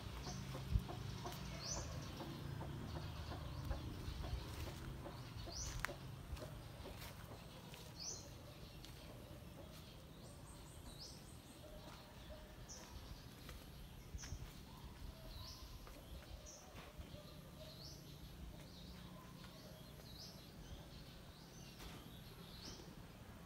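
Free-range native chickens, with short high chirps repeating every second or two over low background noise.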